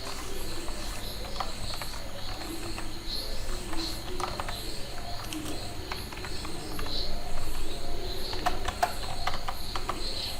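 Computer keyboard keys clicking in irregular runs, with a quick cluster of keystrokes near the end, over a steady low hum.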